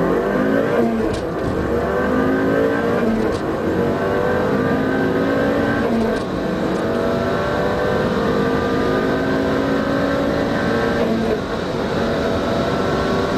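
Mitsubishi Lancer Evolution's turbocharged four-cylinder engine accelerating hard through the gears, heard from inside the cabin. The engine note climbs steadily in pitch in each gear, dropping back briefly at upshifts about six seconds in and again near eleven seconds.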